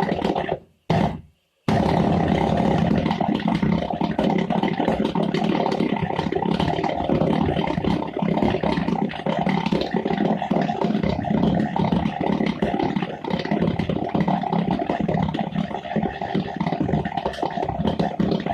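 Experimental deflagration ramjet engine running: a loud, steady rushing noise with a few steady tones in it, cutting out twice briefly near the start.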